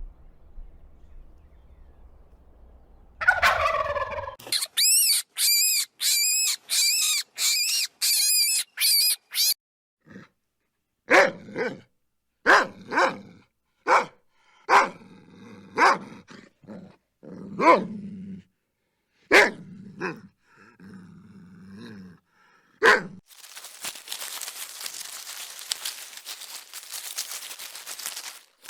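Animal calls: a falling cry, then a quick run of high warbling calls, then a dog barking in single barks spaced a second or two apart. The barking gives way to a steady rustling noise near the end.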